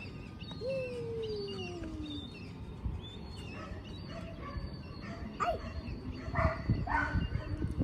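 A dog whining: one long falling whine about a second in, with faint high chirps and low rustling later on.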